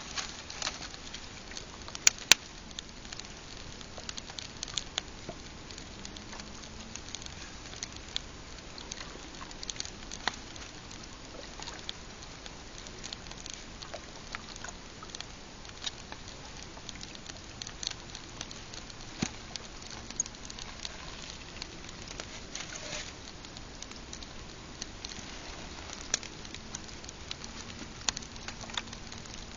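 Pine-wood campfire crackling, with irregular sharp snaps and pops; two are much louder than the rest about two seconds in.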